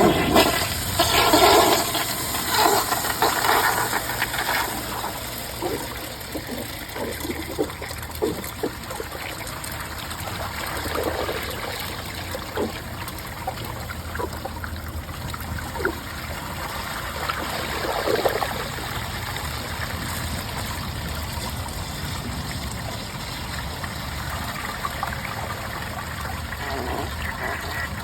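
Mansfield Summit dual-flush toilet flushing from an overfilled tank with its siphon jet clogged: a loud rush of water in the first few seconds, then quieter running water broken by scattered gurgles and glugs as the bowl drains.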